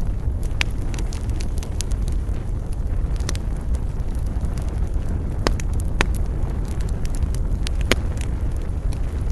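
Wood fire burning in a fireplace: sharp crackles and pops every second or so over a steady low rumble.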